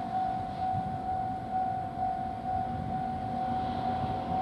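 A freight train hauled by an EF510 electric locomotive approaching, a low rumble that grows louder toward the end, with a steady high tone held over it.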